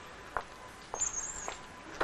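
Faint, short bird chirps, about one every half second, with a thin high whistle partway through.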